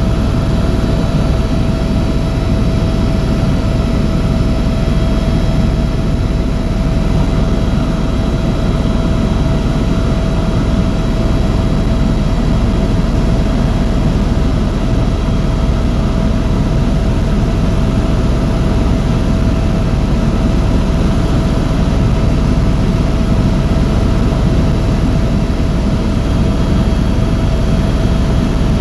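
Tour helicopter in flight, heard from on board: a loud, steady rotor and engine drone with a constant whining tone over a deep rumble.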